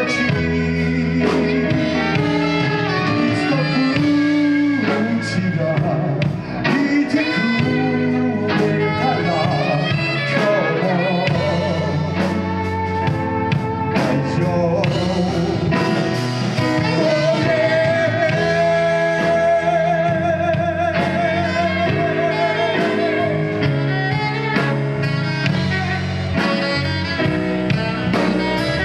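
Live band performing a song: a sung melody over guitar, bass and drums, with a held, wavering vocal note in the middle.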